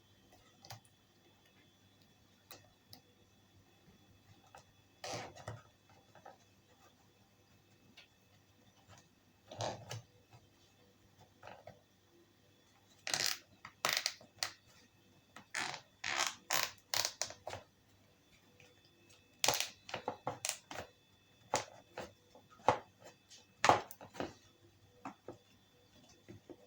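Handling of a plastic car part and small tools during a glue-and-cable-tie repair: irregular clicks, taps and knocks, sparse at first and busier in the second half.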